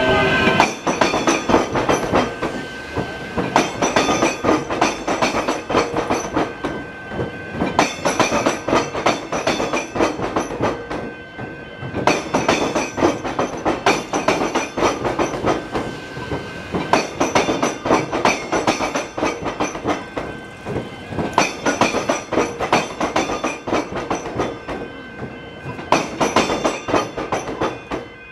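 Train wheels clattering over the tram-track crossing on the railway. The clattering comes in a run of repeated clusters of sharp clicks as the carriages pass over.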